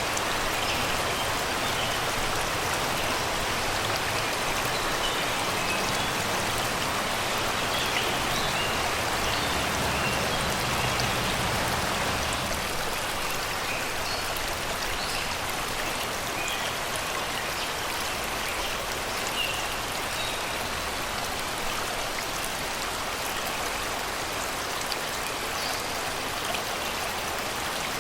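Shallow river babbling and rushing steadily over rocks and stones, a little softer after about twelve seconds. Birds sing in short, scattered chirps above the water.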